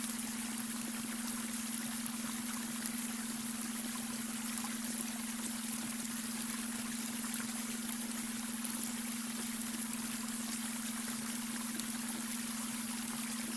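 Babbling brook running steadily, with a steady low hum mixed in underneath: a beta-wave brainwave tone.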